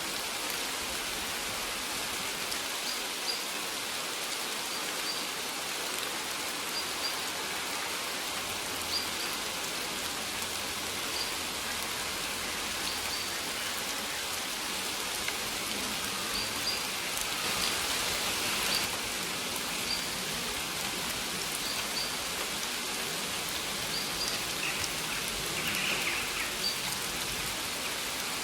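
Steady rain falling, with short high bird chirps every second or two.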